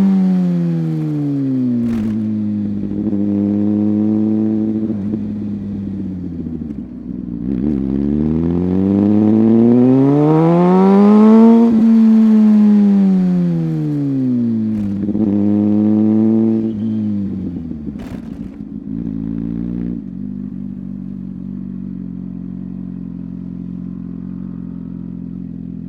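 Motorcycle engine running with its revs rising and falling: the pitch drops early on, climbs smoothly to a peak about eleven seconds in and falls away, rises and falls again more briefly, then settles to a steady low idle for the last several seconds.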